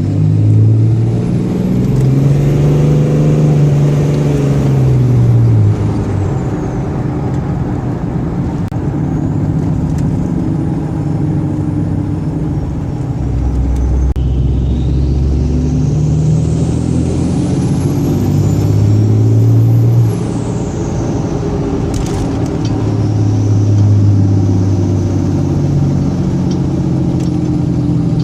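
6.7 Cummins turbo-diesel engine being revved several times. The turbocharger whistles, rising in pitch as it spools up and falling as the revs drop.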